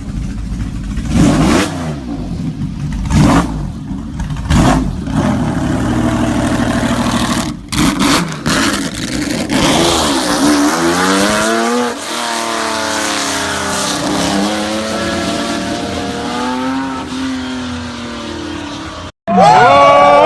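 Car engines revving, with a series of sharp exhaust cracks in the first half. Later an engine's pitch rises and falls through repeated revs.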